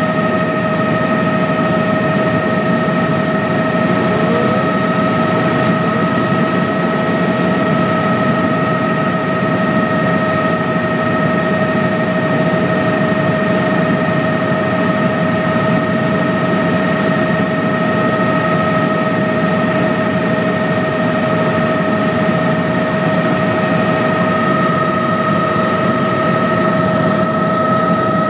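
Helicopter running steadily: a constant engine and rotor noise with a steady high whine on top, unchanging throughout.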